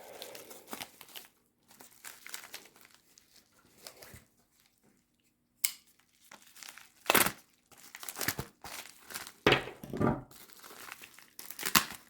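Packing material crinkling and rustling in irregular bursts as a padded mailing envelope is opened and the wrapped action figures are pulled out, with a sudden sharp crackle nearly six seconds in and louder bursts in the second half.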